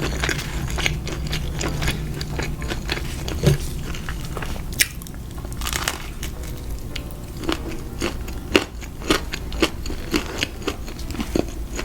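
Close-miked eating of crispy fried food: irregular crunchy bites and chewing.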